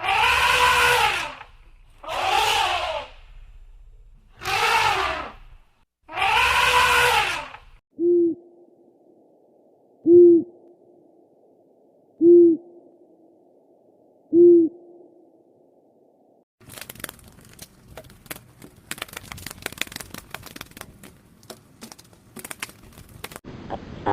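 Four loud, drawn-out pitched animal calls, then an owl hooting four times, each hoot short and low, about two seconds apart. A dense run of clicking and crackling fills the last third.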